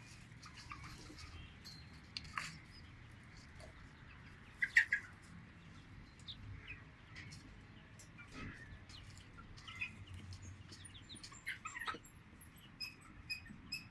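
Young chickens clucking and peeping in scattered short calls, the loudest burst about five seconds in, with a run of high, thin peeps near the end.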